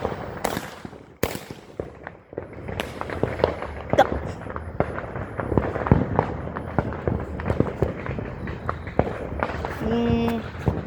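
Fireworks popping and crackling in quick, irregular succession, with two sharper bangs in the first second and a half.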